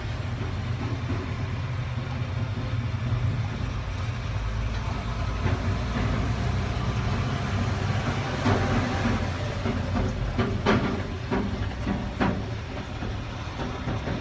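Cat 323 excavator's diesel engine idling steadily, with a few sharp knocks about ten to twelve seconds in.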